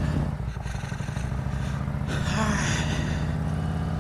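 Motorcycle engine running steadily at an even pitch while under way, with a short burst of hiss about two seconds in.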